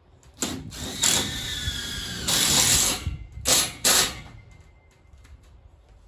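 A power tool running in several short bursts over about four seconds, the longest lasting under a second, then stopping.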